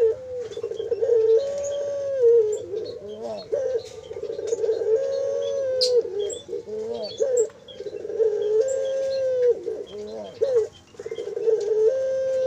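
Young puter dove chicks giving long, drawn-out whining begging calls that step up and down in pitch, one after another with short breaks, with faint short chirps above them.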